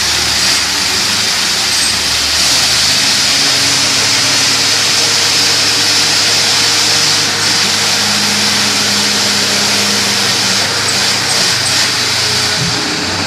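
Borewell drilling rig running steadily: a loud, even hiss over the low drone of the rig's engine, whose pitch shifts a little now and then.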